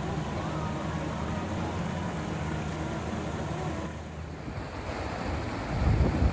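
A steady low hum, then after an abrupt change about four seconds in, wind gusting hard against the microphone in low, irregular rumbles.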